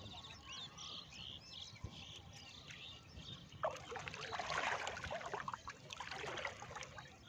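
Small birds chirping in quick, repeated calls. About halfway through, a louder crackling, splashy noise comes in for a few seconds.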